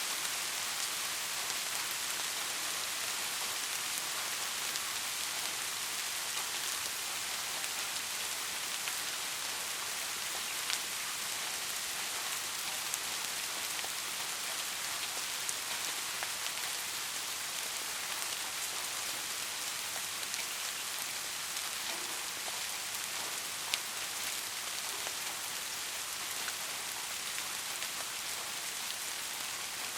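Steady rain falling: an even hiss of many drops, with an occasional single sharper drop tick standing out.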